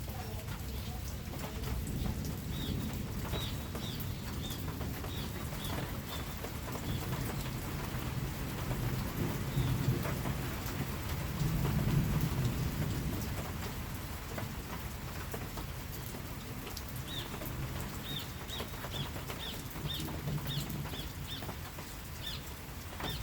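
Steady rain falling, with a low rumble of distant thunder swelling about ten to thirteen seconds in. Short high chirps repeat in two runs, one early on the rain and one near the end.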